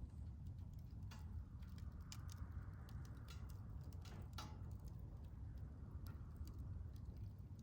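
Wood fire crackling in a Solo Stove Bonfire fire pit: irregular sharp pops and ticks over a low steady rumble.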